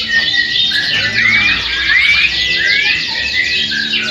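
Canary singing continuously in fast trills, with a few rising whistled notes in the middle.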